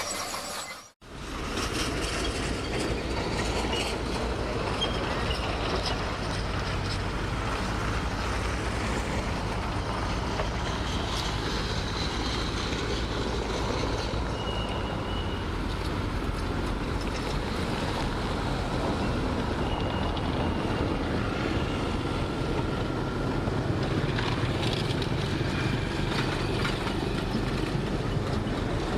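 Heavy diesel earthmoving machinery running steadily under load, with a deep low rumble and a brief dropout about a second in.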